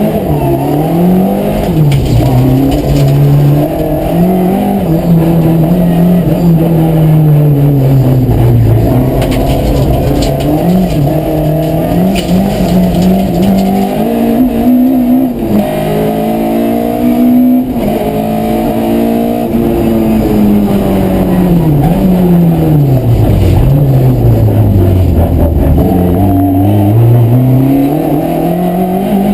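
Rally car engine driven hard on a stage, running continuously, its revs climbing and dropping again and again with gear changes and lifts off the throttle.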